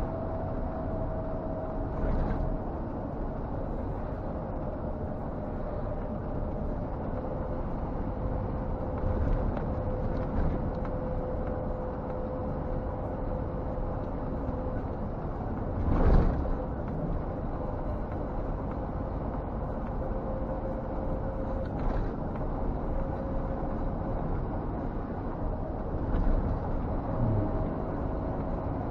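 Scania G460 truck's six-cylinder diesel engine and road noise inside the cab while driving, with a steady whine that slowly falls in pitch and rises again near the end. A few short knocks come through, the loudest about halfway through.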